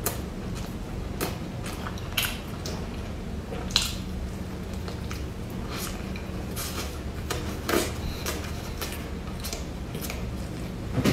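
Close-miked eating of soft bread rolls: bites and chewing with scattered wet mouth clicks and squishes over a steady low hum. A few louder bites stand out, at about two, four and eight seconds in.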